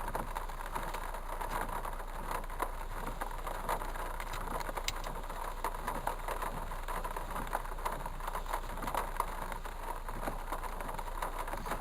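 Heavy rain falling: a steady hiss thick with crackling drops.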